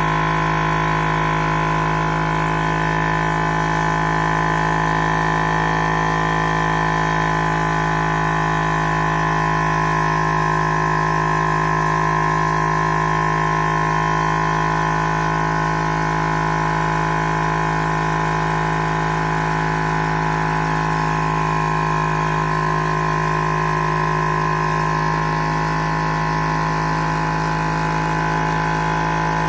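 High-speed Stirling engine with a hybrid thermoacoustic displacement system running steadily: a constant mechanical hum made of several steady tones that holds the same pitch and loudness throughout.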